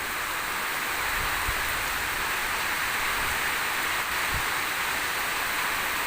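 Heavy monsoon rain falling steadily, a dense even hiss, with a few faint low thumps.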